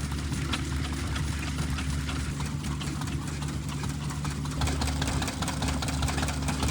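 Vintage Lister stationary engine running steadily at low speed, with a constant low drone and a fast mechanical ticking, while it drives a generator powering a set of lights.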